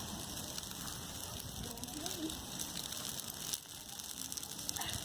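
Wood fire crackling and popping in a rapid, irregular stream of small clicks.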